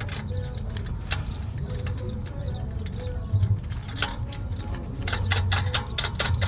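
Hand-tool work on an exhaust pipe: rapid metallic clicking like a ratchet wrench tightening muffler clamp nuts, busiest near the end, over a steady low hum.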